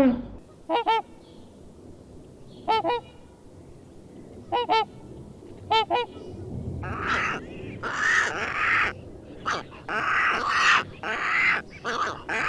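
Geese honking: a single goose gives four short double honks a second or two apart, then about seven seconds in a flock starts honking together in a dense, overlapping clamour.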